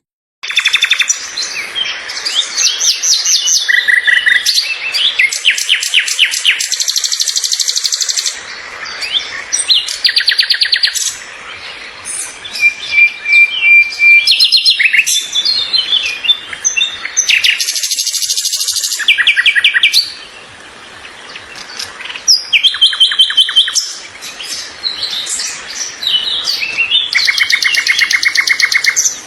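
Birds singing and chirping, with overlapping songs that mix fast trills and repeated short chirps at several pitches.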